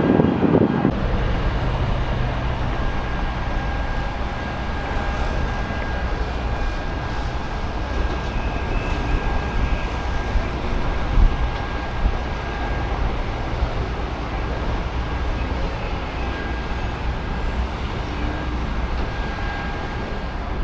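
Steady low rumble of distant engines, with a faint steady whine above it and a brief louder burst of noise right at the start.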